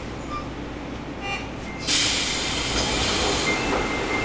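Sendai Subway 1000N-series train at a station stop. About two seconds in, a loud hiss of released compressed air starts suddenly from the train's pneumatic system and keeps going.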